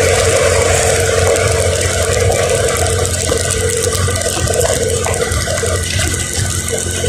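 Steady vehicle driving noise: a constant engine hum under the hiss of tyres and spray on a wet road.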